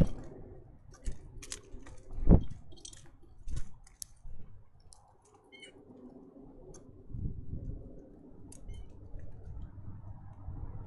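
Sharp irregular clicks and taps of birds pecking and scrabbling on a feeder close to the microphone, with one louder knock about two seconds in.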